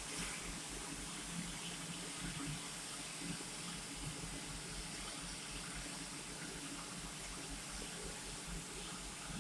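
Steady hiss of a TIG welding arc on stainless steel pipe.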